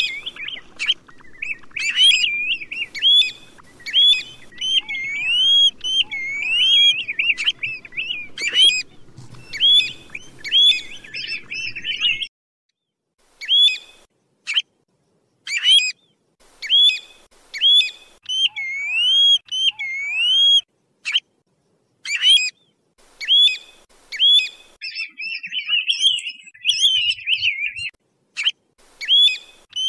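Plover-type bird (Vietnamese 'tu huýt' / choi choi) giving repeated loud whistled calls. Each call is a quick rising-and-falling note, and the calls come in runs with short breaks between them.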